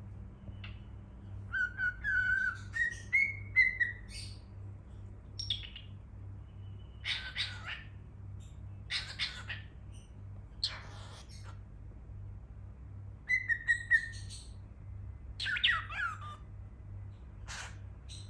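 Cockatiel whistling short gliding notes and giving harsh chirps, in bouts separated by a few seconds of pause.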